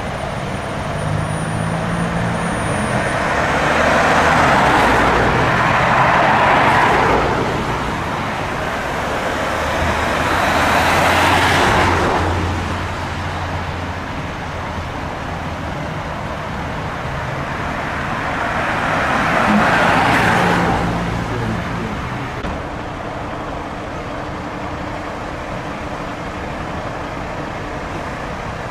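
Road traffic: vehicles passing one after another, with tyre noise swelling and fading as each goes by. There are three louder passes, around five to seven seconds in, around eleven seconds and around twenty seconds, over a low engine hum.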